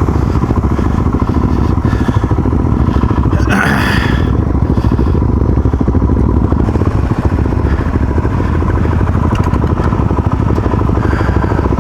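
Off-road motorcycle engine running steadily while riding a dirt track, with a short, rough burst of noise about three and a half seconds in.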